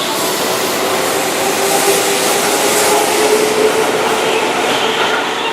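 Keihan electric train running past close by: a steady loud rush of wheels on rail and running gear, with a faint motor whine rising slightly in pitch midway.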